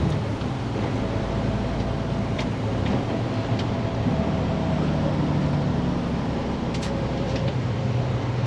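Diesel engine of a day-cab semi truck running steadily under way, heard from inside the cab, with a few faint clicks.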